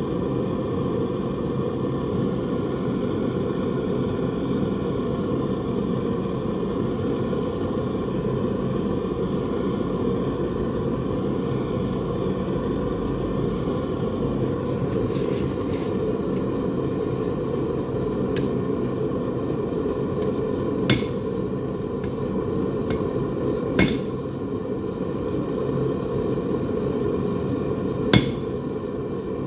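A few sharp hammer strikes on metal, spaced several seconds apart in the second half, over a steady low rushing noise.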